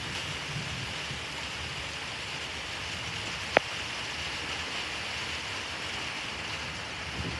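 Steady rain falling, with one sharp tap a little past halfway through.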